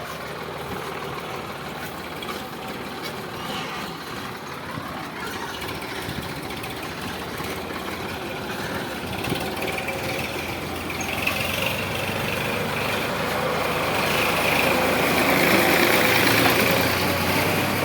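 Sonalika DI 745 tractor's diesel engine running, growing louder through the second half and easing off near the end.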